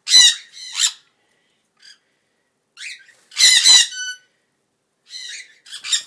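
Cockatiels squawking in short harsh calls: two at the start, a longer, louder run about three and a half seconds in that ends in a brief whistled note, and more calls near the end.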